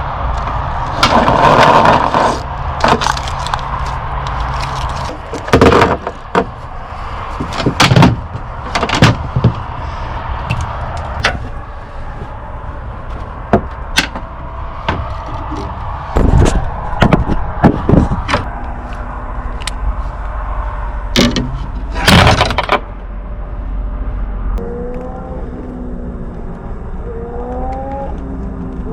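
A series of sharp knocks, clacks and scrapes, as of objects being handled, over a steady low rumble that stops about 24 seconds in. A few short rising chirps come near the end.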